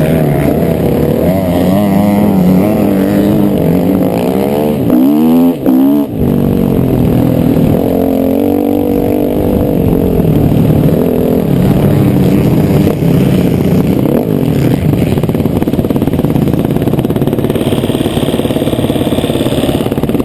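Motocross dirt bike engine revving hard and up close, its pitch repeatedly rising and falling with the throttle and gear changes, with two brief cuts in the engine note about five to six seconds in.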